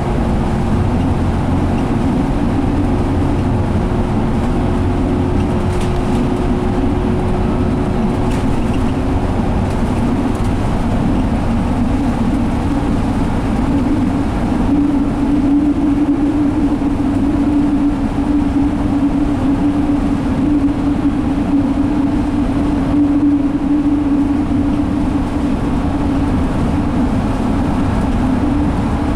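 Cabin noise of an Alexander Dennis Enviro500 double-decker bus cruising on the freeway: its Cummins ISL diesel engine and drivetrain running with a low rumble and road noise. A steady hum is heard, dropping a little lower in pitch and growing louder about halfway through.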